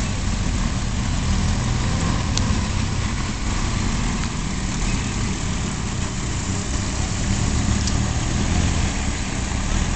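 Ford car engines running steadily at low revs as the cars drive slowly past one after another.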